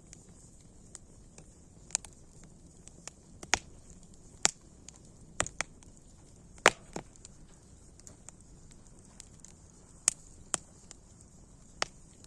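Wood fire crackling: sharp irregular pops and snaps, about a dozen, over a faint steady hiss.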